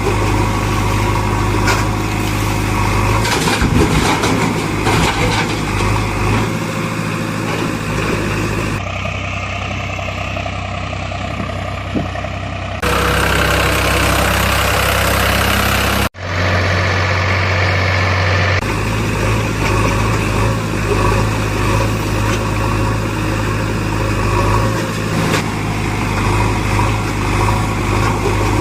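Heavy machinery engines, an excavator's and tractors', running steadily, in several clips joined by abrupt cuts where the engine sound changes.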